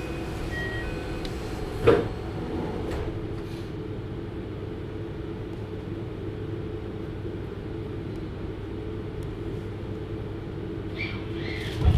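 Inside a JR Hokkaido 733 series electric train: the steady hum of the train, carrying a few level tones. There is a sharp knock about two seconds in and another near the end.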